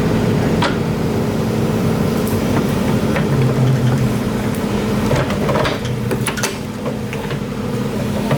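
Excavator engine running steadily under load, with several sharp knocks and clanks at irregular intervals.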